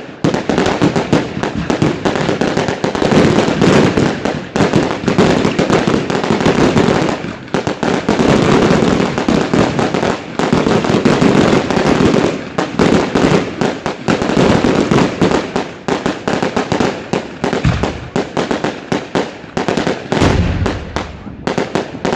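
Dense, unbroken fireworks barrage: rapid overlapping bangs and crackling from many shells and firecrackers going off at once.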